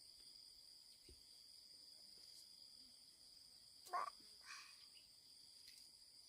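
Faint, steady insect chirring, with a short sharp sound about four seconds in and a fainter one just after.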